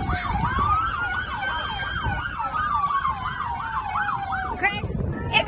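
Two emergency-vehicle sirens sounding at once: one in a fast yelp, rising and falling about two and a half times a second, the other a single slow wail that rises and then falls. Both run over a low rumble and stop near the end.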